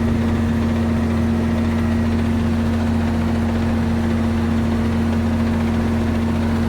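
Ford 9700 tractor's six-cylinder diesel engine running steadily under PTO load, driving a manure spreader's chain and beaters as it spreads.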